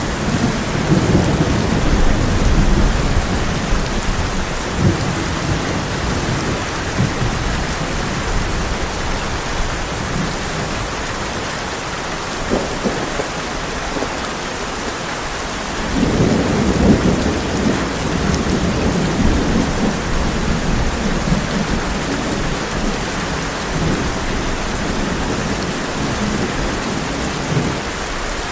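Heavy rain drumming steadily on a tin roof, with rolling thunder: a rumble fading over the first few seconds, then another swelling about halfway through and slowly dying away.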